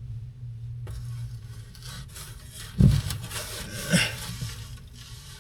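Rubbing and scraping as panels of an ambulance's ceiling box are handled and pulled at, with a single heavy thump about three seconds in and a lighter knock a second later.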